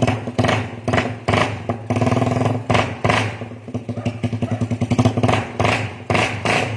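Suzuki Raider 150 motorcycle engine running through an aftermarket exhaust, idling and revved in a series of short, sharp throttle blips, about one every half second to second.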